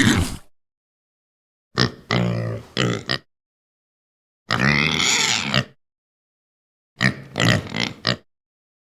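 Domestic pig grunting in short bouts separated by silent gaps, with one longer call about halfway through.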